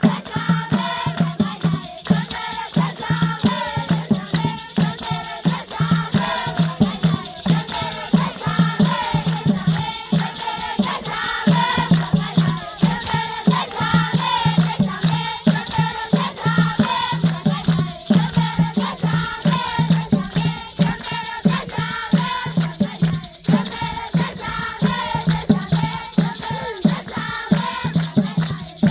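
Group of children singing a traditional Zimbabwean rain-dance song, with a steady low beat and shaken rattles throughout.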